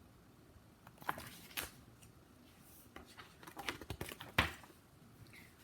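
Pages of a picture book being handled and turned: a few soft paper rustles and light knocks, the sharpest about one and a half and four and a half seconds in.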